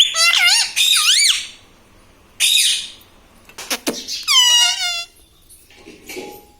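Pet Indian ringneck parakeet vocalising in high-pitched, warbling calls: a wavering call at the start, a short harsh screech a couple of seconds in, then another call with falling pitch.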